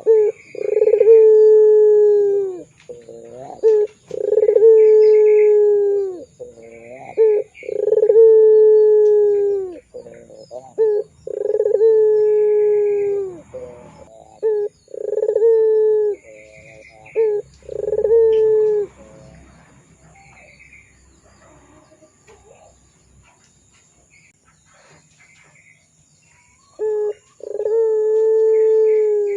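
Puter pelung (domestic Barbary dove) cooing: a string of long, drawn-out coos, each a short note and then a held tone that drops at the end, about one every three and a half seconds. A quiet pause comes after about twenty seconds, then one more coo near the end.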